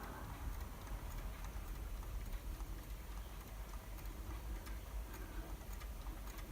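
Quiet room tone with faint ticking.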